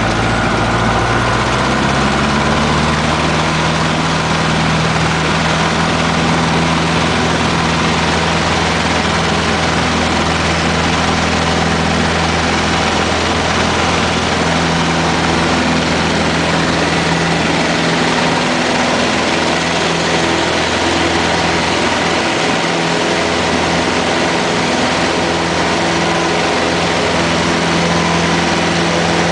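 Cessna 150's four-cylinder Continental O-200 piston engine and propeller running loud and steady, heard from inside the small cabin. The engine note rises over the first couple of seconds, then holds an even drone.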